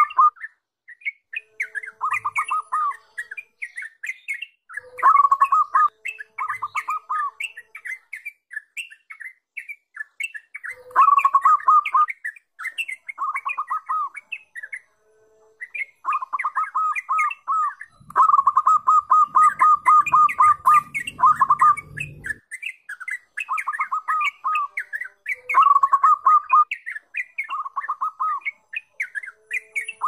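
A songbird singing in repeated bursts of sharp chirps and fast runs of rapid, even notes, with short pauses between phrases. About two-thirds of the way in comes one longer run of rapid notes.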